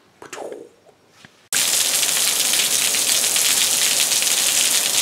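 Heavy rain with water spilling over clogged gutters: a loud, steady rushing hiss that cuts in suddenly about a second and a half in.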